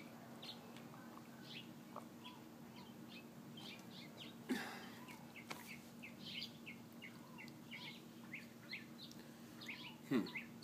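Small birds chirping repeatedly, many short high chirps over a faint steady low hum. Two short louder sounds stand out, about four and a half seconds in and again near the end.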